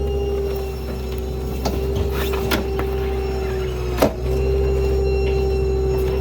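Small rear-load garbage truck running, a steady hydraulic whine over the engine's low rumble, with scattered knocks and one loud clank about four seconds in.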